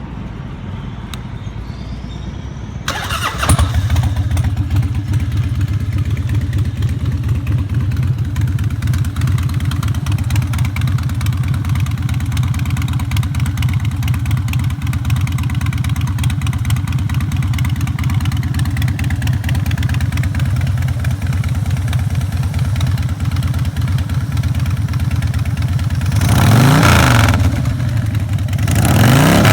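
A 2003 Harley-Davidson Dyna Wide Glide's Twin Cam 88 V-twin, breathing through a Vance & Hines Street Sweeper exhaust, fires up about three seconds in and then idles steadily. Near the end the throttle is blipped in a couple of revs.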